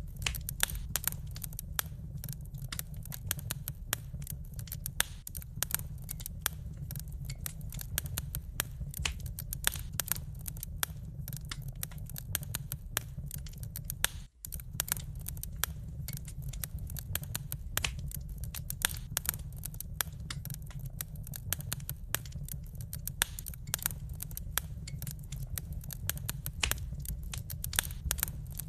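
Wood fire crackling, with many irregular sharp pops and snaps over a steady low rumble; the sound cuts out for a split second about halfway through.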